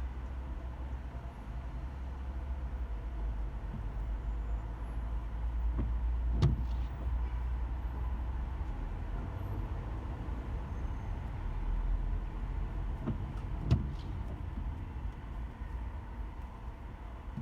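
Car driving in slow traffic, heard from inside the cabin as a steady low rumble. Two short sharp knocks come about seven seconds apart.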